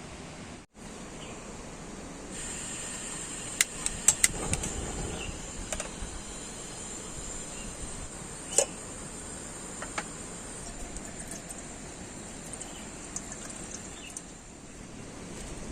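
Steady rain hiss. A high, steady insect chirring, like crickets, comes in about two and a half seconds in. A few sharp ticks and clicks land over it, a cluster around four seconds in and one more near the middle.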